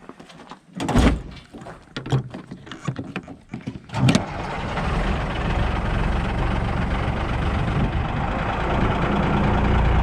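Scattered knocks and clunks, the loudest about a second in. Then, about four seconds in, the rollback truck's engine starts at once and settles into a steady idle.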